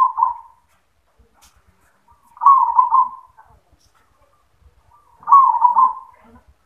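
Zebra dove (perkutut) cooing its song: the end of one phrase, then two full rolling coo phrases about three seconds apart.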